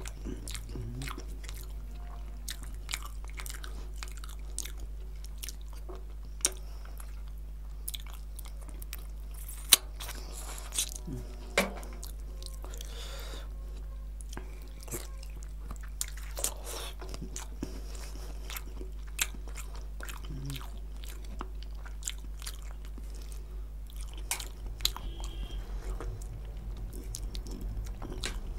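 Close-miked chewing and wet mouth sounds of eating mutton curry with bhature by hand: lip smacks and sticky clicks scattered through, one much sharper near the middle, over a steady low hum.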